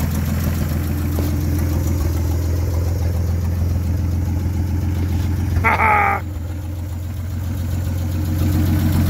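1947 Dodge's 232 flathead Chrysler straight-six idling steadily on a cold start, not yet warmed up.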